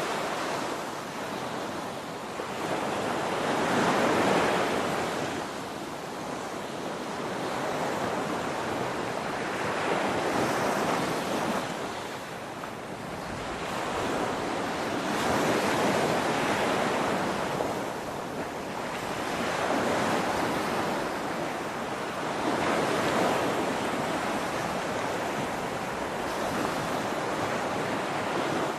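Ocean surf: waves breaking and washing in a continuous rushing noise that swells and eases every few seconds.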